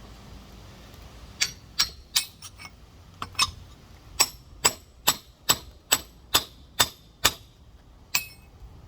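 A rock hammer striking a large geode in about fifteen sharp, ringing strikes, irregular at first, then a steady two a second, with one last strike near the end. The blows are working a crack through the stone to split it open.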